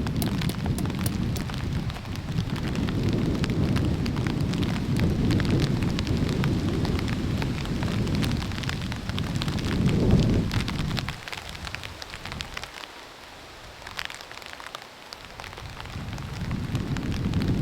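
Hard rain with strong wind gusts rumbling on the microphone, over a patter of drops. The wind dies away about eleven seconds in, leaving the drops, and builds again near the end.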